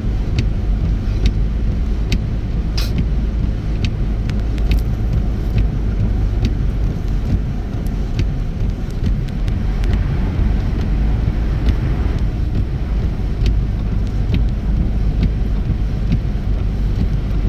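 Car cabin noise while driving on a snow-covered highway: a steady low rumble of road and tyre noise, with occasional faint ticks.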